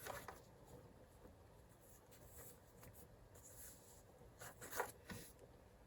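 Near silence with a few faint rustles and light taps of things being handled, once at the start and again about four and a half to five seconds in.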